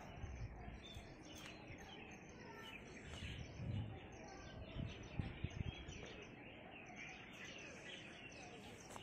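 Birds chirping and calling, many short chirps over a low outdoor rumble, with a few low thumps between about three and a half and six seconds in.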